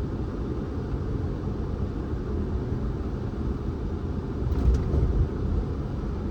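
Steady low rumble of a car driving: engine and tyre road noise, with a brief louder bump about two-thirds of the way through.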